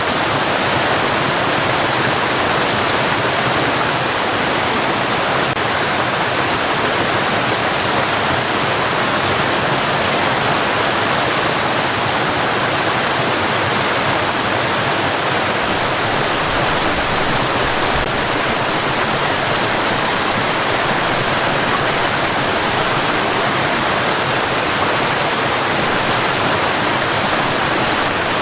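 Steady white noise for baby sleep: an even, unchanging hiss that sits mostly in the middle and upper range and softens at the very top.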